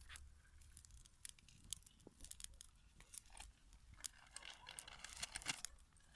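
Burning grass fire crackling faintly, with many irregular sharp pops and snaps.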